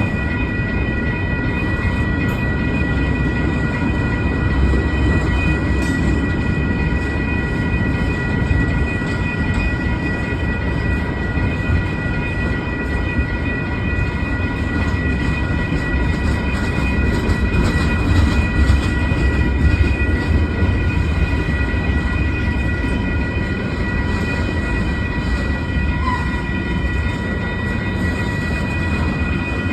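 Freight train cars rolling past: a steady low rumble of steel wheels on rail, with a steady high-pitched ringing held over it throughout.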